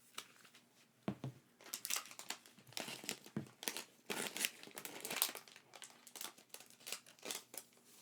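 Packaging crinkling and rustling in quick, irregular crackles as it is handled and unwrapped by hand, louder from about a second in.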